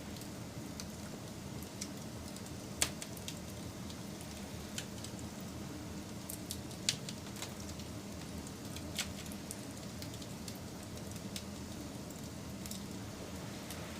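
Wood fire crackling: a steady low rushing hiss with scattered sharp pops and snaps. The loudest pops come about three, seven and nine seconds in.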